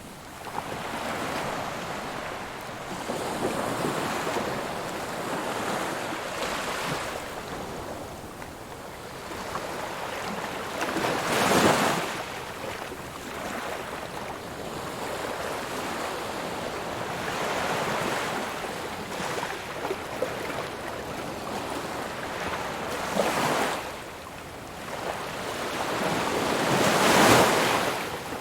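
Ocean waves breaking on a shore, a steady wash of surf that swells and falls, with the loudest waves crashing about a third of the way in and near the end.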